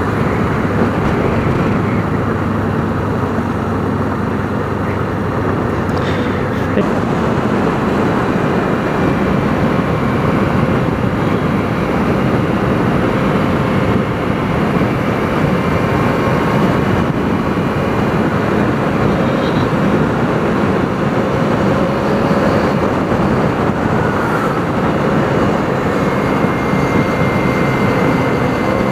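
Onboard sound of a Kawasaki Ninja 300 parallel-twin riding along at a steady pace, the engine note drifting slowly up and down under a heavy, steady rush of wind noise.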